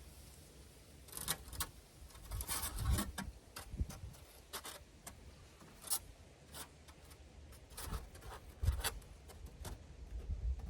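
Irregular rubbing, scraping and light clicks of hand work on insulation material, with a few sharper knocks, the loudest near the middle and about three-quarters of the way through.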